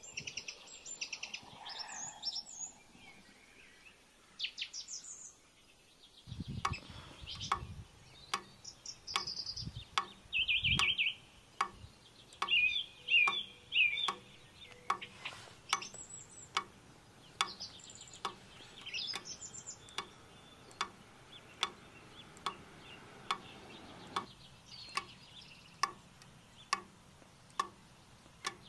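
Small birds chirping in short repeated bursts on and off. From about six seconds in there is a steady series of sharp clicks, roughly one and a half a second.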